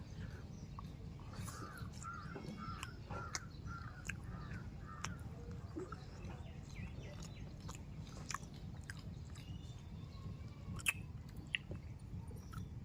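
Chewing and mouth clicks of someone eating, over a steady low hum. About two seconds in, a crow caws in a quick run of harsh calls.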